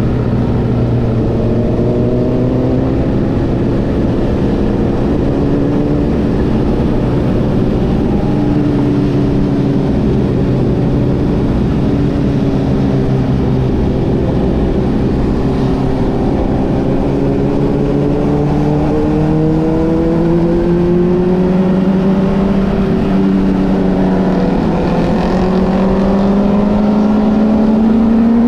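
Motorcycle engine running under way, its note holding fairly steady and then climbing steadily over the last third as the revs build.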